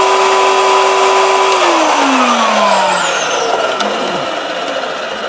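Oreck XL upright vacuum cleaner's motor running at full speed with a steady whine. About a second and a half in it is switched off, and the pitch falls as the motor spins down and the noise fades away.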